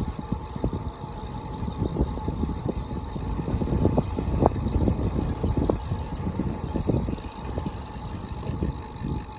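Low, gusty rumble of wind and road noise from a bike in motion, with frequent short buffets and a faint steady whine.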